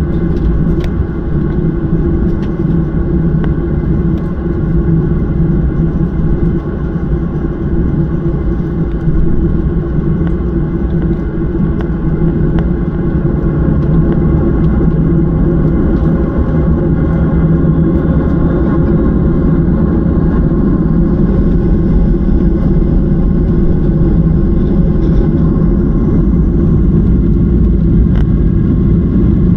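Steady rumble of an airliner's jet engines heard from inside the passenger cabin, a low drone with several steady tones over it, with takeoff imminent. It grows slightly louder about halfway through.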